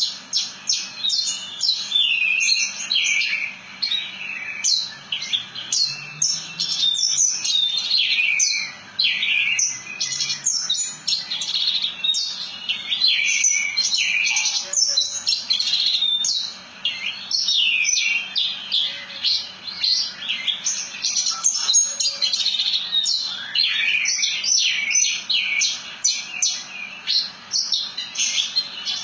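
Horsfield's bushlark (branjangan) singing a long, unbroken run of rapid chirps and quick sweeping notes with hardly a pause, the rolling song that keepers call 'ngerol'.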